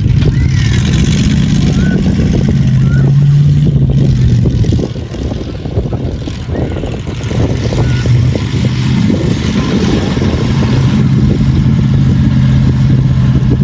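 A large vehicle engine running with a steady low hum and rumble, easing off for a couple of seconds about five seconds in, then steady again.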